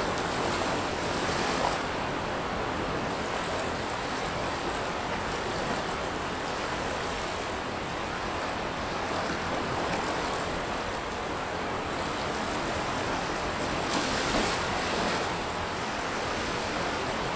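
Sea waves washing steadily over a pebble beach in a continuous rush of surf. A slightly louder, hissier surge comes near the start and again about fourteen seconds in.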